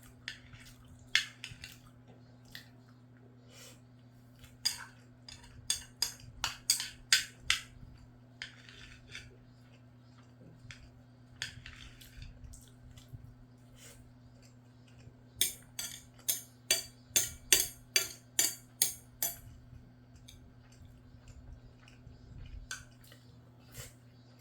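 Eating utensils clinking and scraping against a dish of rice, scrambled egg and gochujang. There are two runs of sharp clinks, the second a quick series of about ten, with short scrapes between them, over a faint steady low hum.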